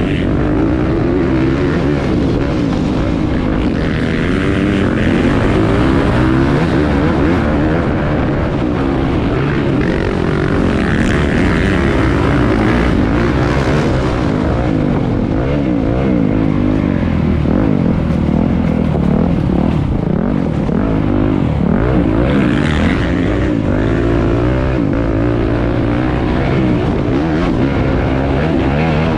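Motocross bikes running on a track, their engines revving up and down continuously, several at once.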